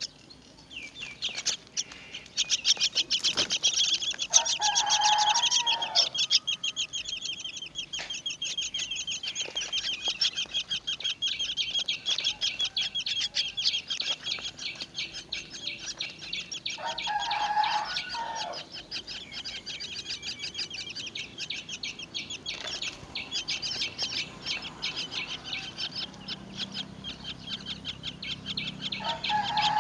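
Myna nestlings begging: a fast, near-continuous run of high, harsh calls, loudest between about 2 and 6 seconds in. A lower, drawn-out call rises over it three times, about 4 seconds in, about 17 seconds in, and at the very end.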